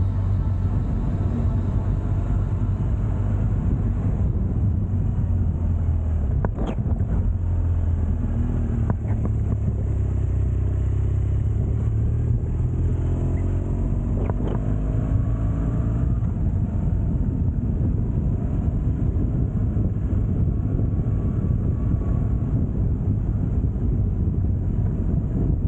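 Motorcycle engine running steadily under way, with a constant low rumble of wind and road noise. There are a few short sharp knocks, and the engine's pitch shifts briefly about halfway through.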